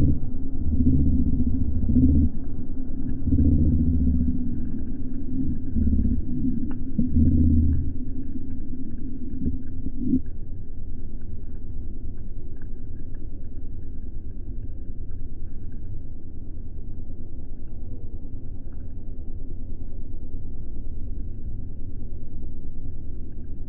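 Cessna 172 light aircraft's piston engine and propeller, a low, continuous rumble. The first several seconds pulse unevenly and more heavily, then the rumble settles steadier and slightly quieter.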